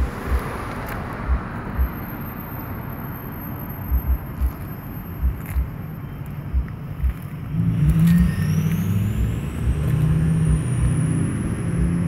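Scattered low thumps, then about two-thirds of the way in a louder motor-vehicle engine sound starts up and runs, with a thin high whine slowly rising over it.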